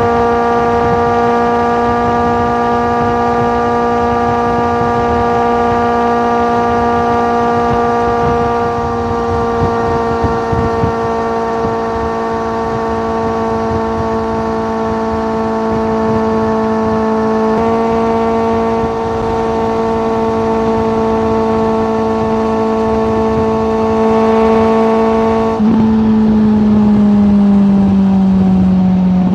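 Suzuki GSX650F motorcycle's inline-four engine, through a Tiger aftermarket exhaust, holding steady revs with an even, unbroken tone. The pitch steps down slightly about two-thirds of the way in, then drops again and falls away near the end as the revs come down.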